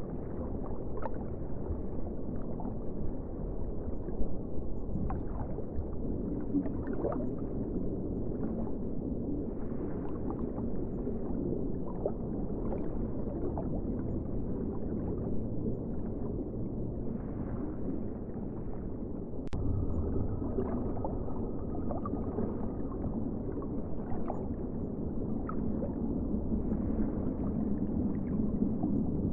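Steady, muffled ocean water sound: a dull low rumble of moving water with small gurgles and clicks through it, and one sharp click about twenty seconds in.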